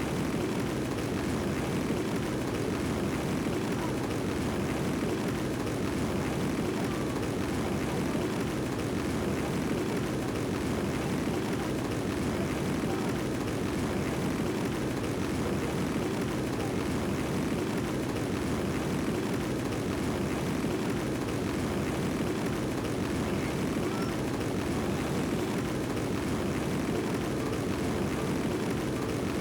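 Steady rushing of flowing river water, an even low wash with no breaks.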